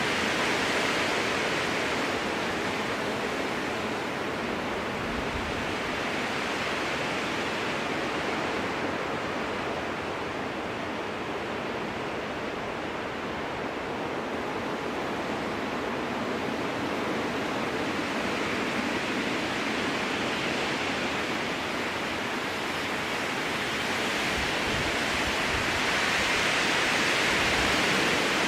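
Strong wind blowing through a spruce forest: a steady rush that eases somewhat in the middle and swells again near the end.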